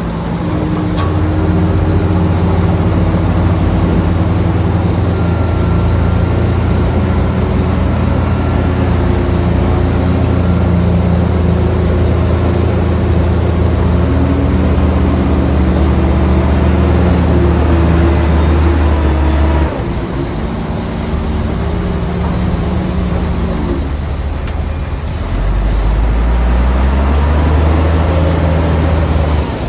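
Heavy diesel engine of earthmoving machinery running hard under steady load. About two-thirds of the way through it drops in pitch and loudness as it eases off, then rises again near the end.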